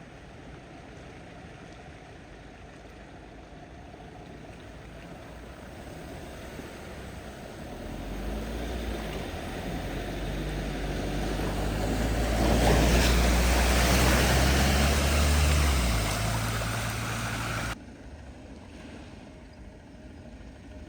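A vehicle driving through a flooded ford: its engine grows louder as it comes near, and water surges and splashes loudest around the middle, then the sound cuts off suddenly.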